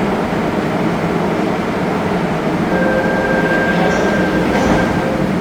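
Korail Class 351000 electric multiple unit on the Suin-Bundang line running through a station, a loud steady rumble of wheels on rail. A steady whine joins it just past halfway and fades near the end.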